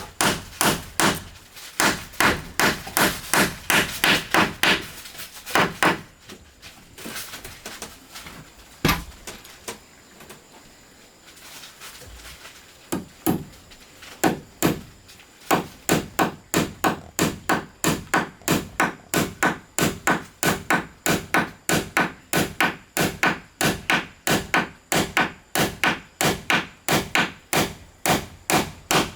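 Hammer blows on wood, struck in a steady rhythm of about two to three a second, with a pause of several seconds of only scattered lighter knocks near the middle before the hammering resumes.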